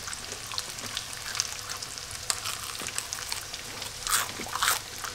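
Breaded crappie pieces frying in shallow peanut oil: a steady sizzle with scattered crackles and pops, and two louder crackles about four seconds in.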